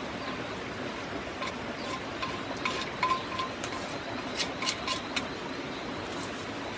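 Irregular light clinks, several with a brief ringing tone, over a steady background hiss.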